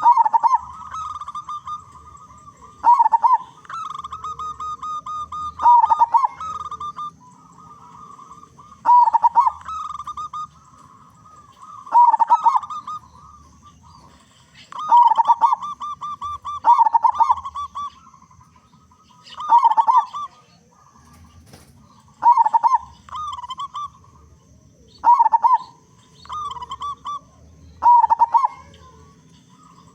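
Zebra dove (perkutut) cooing song, one phrase about every three seconds, each opening with a loud note and running on in softer rolling coos.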